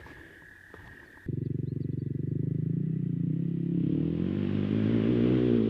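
An engine cuts in suddenly about a second in and runs steadily, growing louder and rising slightly in pitch as it goes.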